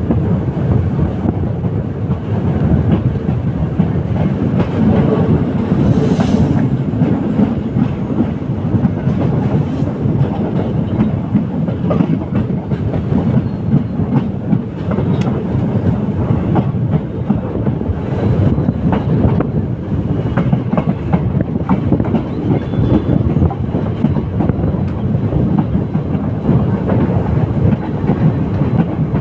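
Diesel passenger train running along the track, heard from on board: a steady rumble of wheels on rails with clickety-clack over the rail joints.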